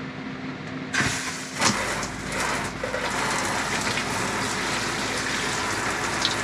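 Stock RV shower head turned on with a click about a second in, then water spraying steadily from it. This is the factory 2.5 gallon-per-minute head, whose flow is weak and low in pressure.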